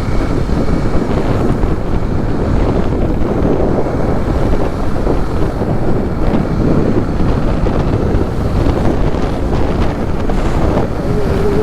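Loud, steady wind rush buffeting the microphone of a moving motorcycle, covering the road and engine noise.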